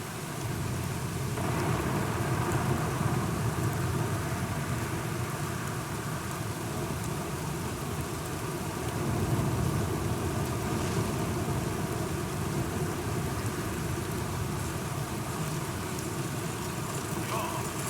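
Steady rain falling, with low rolling thunder rumbles that swell about a second in and again near the middle.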